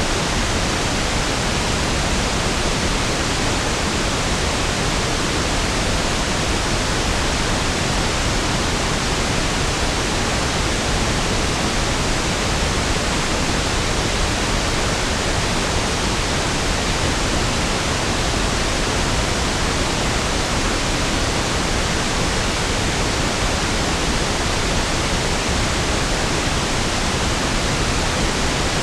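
Steady pink noise: an even, unchanging hiss with equal energy per octave, smoother and deeper than white noise.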